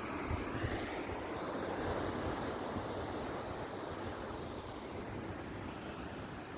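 Steady rushing wind, buffeting the microphone with low thumps in the first second, then easing off slowly.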